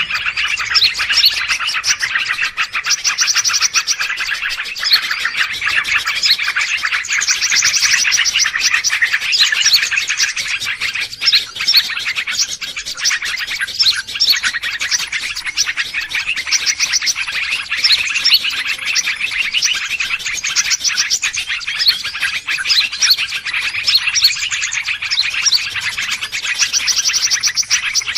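Dense, continuous chorus of many small birds chirping and trilling at once, a noisy bird-luring call track.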